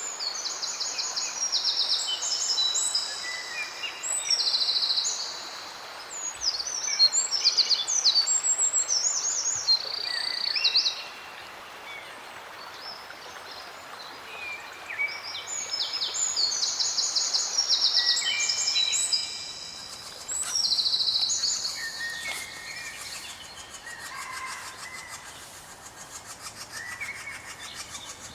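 Several songbirds singing in overlapping phrases of quick trills and chirps over a steady background hiss, with two busy stretches of song and a quieter spell between them.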